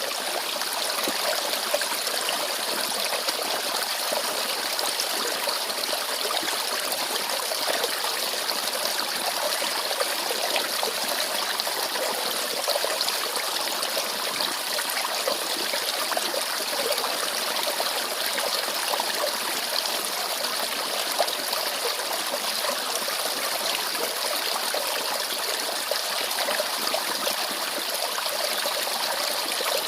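Mountain valley stream trickling steadily, an unbroken babble of running water that is light and bright, with little low rumble.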